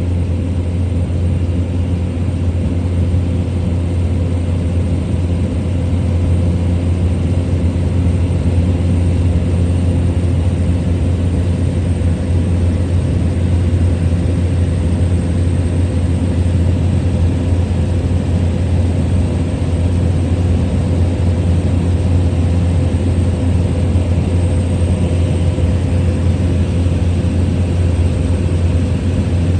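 Small plane's propeller engine running steadily in flight, heard from inside the cabin: a constant low hum with a steady higher tone above it.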